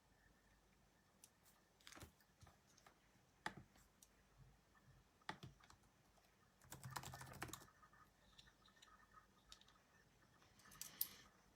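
Faint, scattered clicks and taps in a quiet room, with a short run of rapid taps about seven seconds in and another small cluster near the end.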